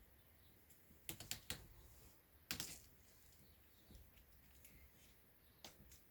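A few short, sharp clicks against near silence: three in quick succession about a second in, a louder cluster about halfway through, and a single click near the end.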